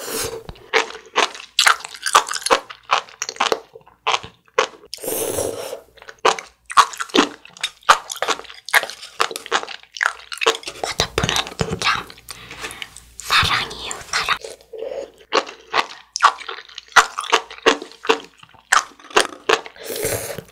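Sea grapes being chewed: many small, crisp pops as the bead-like seaweed bursts in the mouth, with a few wet slurps as the strands are sucked in.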